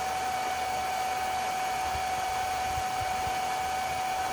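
Electric pool-draining pump running loud and steady: an even hiss with a constant high hum through it.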